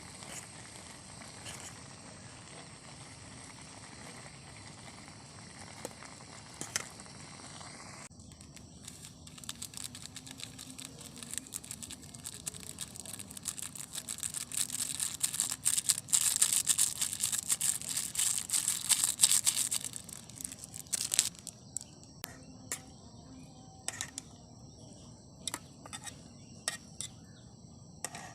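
Crickets chirring steadily in the background, while close rustling and crinkling handling noise builds to a dense, loud patch around the middle and then thins to scattered clicks.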